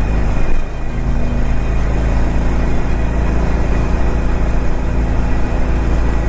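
Harley-Davidson Sportster Forty-Eight (XL1200X) air-cooled 1200 cc V-twin running steadily at highway cruising speed, heard from the rider's seat with a steady rush of wind and road noise. The level dips briefly about half a second in.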